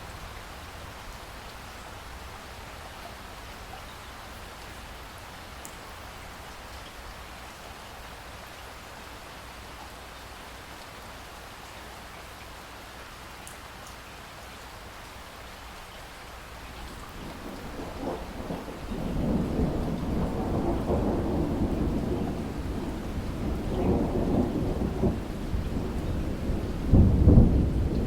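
Steady rain falling, then a long roll of thunder that builds from about two-thirds of the way in and peaks with a loud crack near the end.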